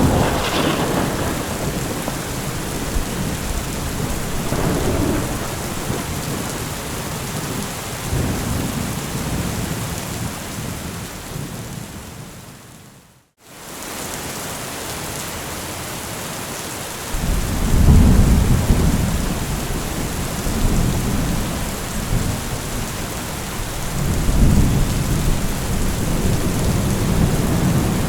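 Thunderstorm: steady heavy rain hissing, with rolling thunder rumbles, the first near the start with a sharper crack. About halfway through the sound fades out to silence for a moment and fades back in. Deep, louder rumbles swell twice in the second half.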